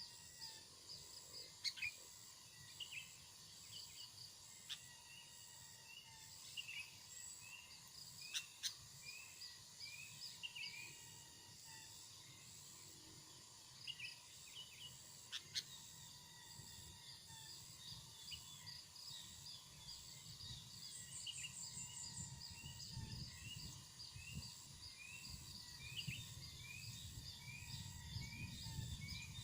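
Faint outdoor birdsong: a bird repeating short rising chirps about twice a second, with a few sharp, high single calls cutting in. A low rumble like wind on the microphone grows in the second half.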